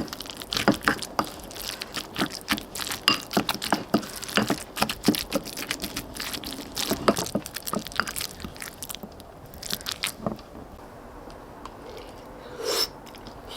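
Close-miked eating: crunchy chewing and biting of braised pollack with bean sprouts, a dense run of crisp clicks for about eight seconds that thins out after.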